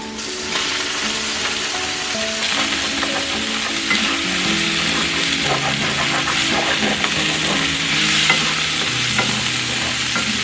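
Food sizzling in a hot frying pan while being stirred, with scattered clicks of the utensil against the pan; the sizzle starts about half a second in, grows louder about two seconds in and cuts off abruptly at the end.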